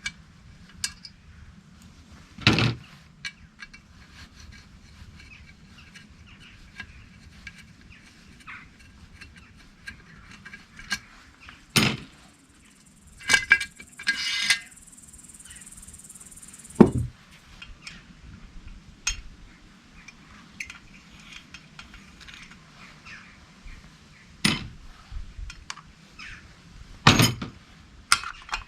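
Metal tools and chainsaw parts being handled: scattered sharp clinks and knocks at irregular intervals, with a short rattle about halfway through.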